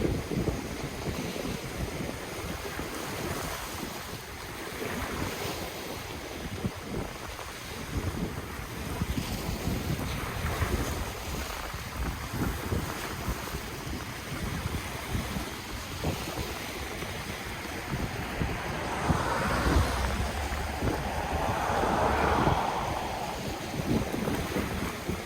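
Ocean waves washing onto the shore, with wind buffeting the microphone in a low rumble. A larger wave surges louder about three quarters of the way through.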